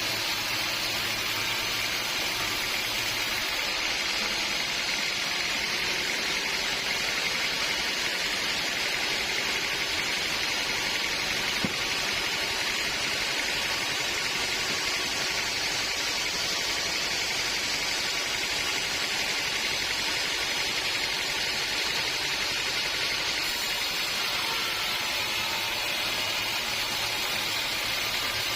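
Steady machine noise, an even hiss with no clear pitch that holds throughout, with one brief click about twelve seconds in.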